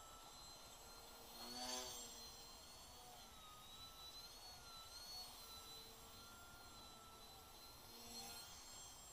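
Small FPV quadcopter's electric motors whining faintly, the pitch wavering up and down as the throttle changes. There is a brief louder swell about two seconds in and a smaller one near the end.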